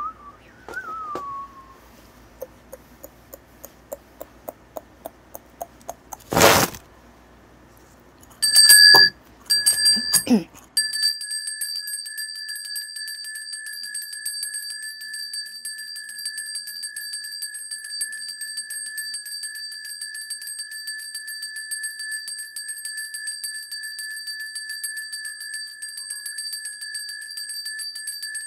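A small bell ringing with rapid, continuous strokes, a steady high ring from about ten seconds in, after a few short rings a couple of seconds earlier. Before that come a run of light ticks and one loud knock.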